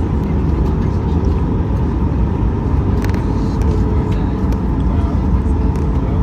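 Steady rumble of a Boeing 737-800's engines and airflow, heard inside the cabin from a seat over the engine, with a faint steady tone running through it. A few light clicks come about three seconds in.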